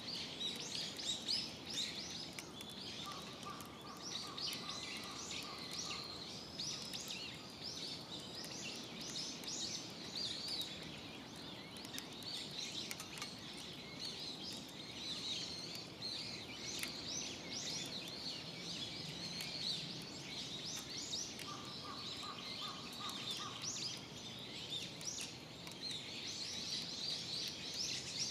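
Birds chirping continuously in a dense chorus, with a steady mid-pitched tone sounding twice for about two seconds each.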